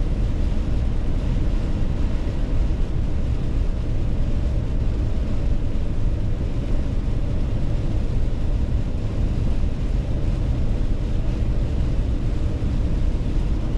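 Steady road and engine noise heard inside a moving car's cabin at highway speed, a low even rumble with no sudden events.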